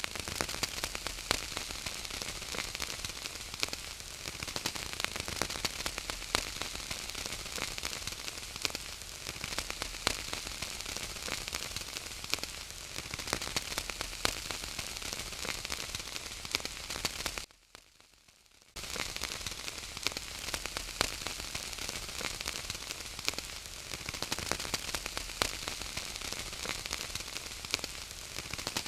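Wood fire crackling: a steady hiss thick with small sharp pops and snaps. The sound drops out for about a second roughly two-thirds of the way through, then resumes.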